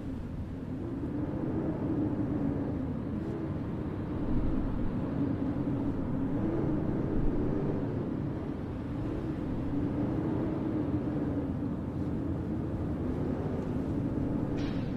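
Steady city ambience in a snowstorm: a continuous low rumble with a droning hum whose pitch wavers slightly.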